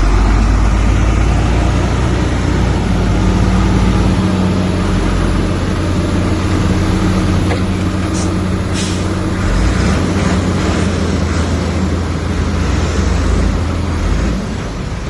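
Heavy diesel earthmoving machinery running steadily with a low drone. A short air hiss comes a little past halfway, like a dump truck's air brake.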